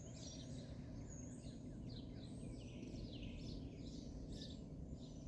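Songbirds chirping and singing, a rapid series of short falling notes, over a faint steady low background rumble.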